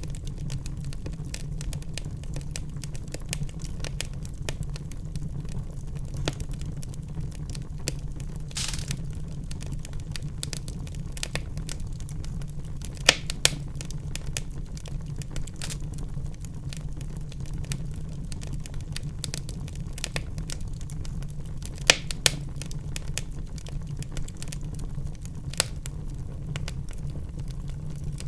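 Wood fire burning in a fireplace: steady low rumble of the flames with constant crackling, and a few louder pops. About eight seconds in there is a short hiss.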